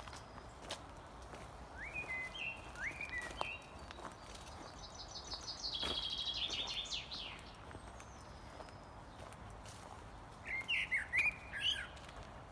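Songbirds singing: several short whistled phrases, then a fast trill that falls in pitch, the loudest part, and another quick cluster of whistled notes near the end.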